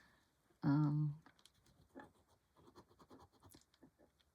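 Pen or pencil colouring strokes on paper: faint, quick, irregular scratching. A brief vocal sound interrupts it just under a second in.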